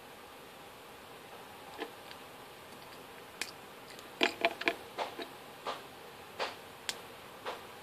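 Light, irregular clicks and taps of small LEGO plastic pieces being handled and set down, about ten in all, bunched together around the middle.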